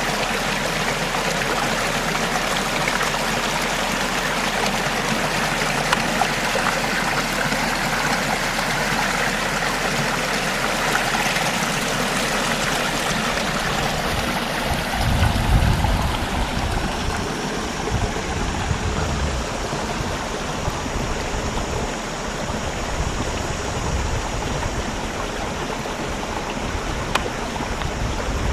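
Steady rush of water in a flowing stream, with a few low rumbles about halfway through.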